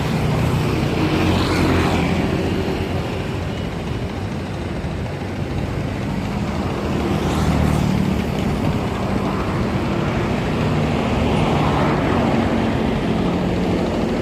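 Engine running steadily: a low, even hum with a noisy wash over it.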